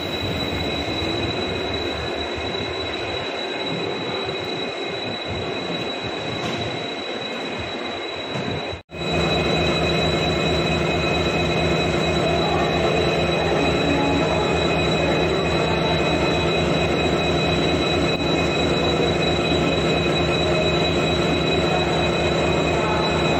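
Steady noise of an Indian Railways passenger train, with a thin high whine throughout. About nine seconds in, the sound cuts out for a moment and comes back louder, with a steady low hum.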